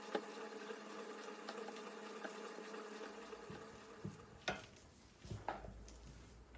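Kitchen cooking sounds: a steady hum with a faint sizzle, then a few sharp clicks and knocks of utensils in the second half.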